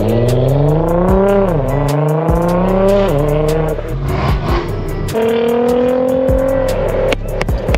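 Car engine accelerating hard. Its pitch climbs and drops sharply twice in the first three seconds as it shifts up through the gears, then climbs slowly again later.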